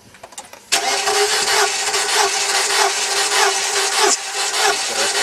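Mercedes-Benz W210's engine being turned over by its starter motor, throttle held open, with a compression gauge screwed into one cylinder. The cranking starts abruptly about a second in and runs steadily with a regular repeating pulse from the compression strokes.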